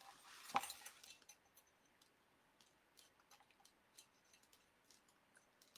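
Faint crafting handling sounds: a short rustle with a sharp click about half a second in, then scattered light ticks, as wire and deco mesh are worked onto a wreath frame.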